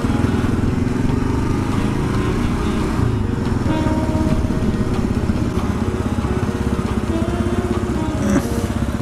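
Kawasaki KLR 650's single-cylinder four-stroke engine running steadily as the motorcycle rides along, with one sharp knock near the end.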